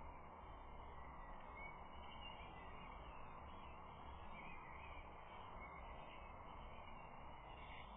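Faint steady outdoor background noise from a stork-nest camera's microphone, an even hiss with a low rumble, with a few faint bird calls in it.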